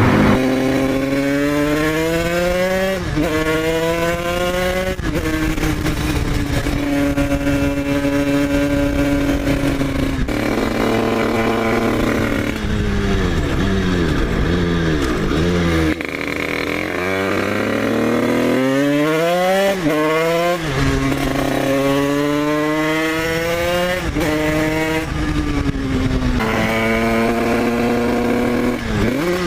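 Dirt bike engine running hard through the gears, its pitch climbing then dropping at each shift. Around the middle it eases off with falling pitch, then climbs through the gears again.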